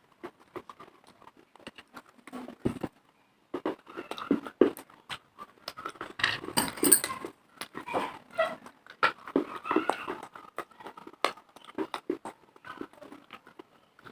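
Close-up biting and chewing of dry baked clay pieces: irregular crisp crunches and snaps between the teeth, with a short pause about three seconds in and the densest crunching a little past the middle.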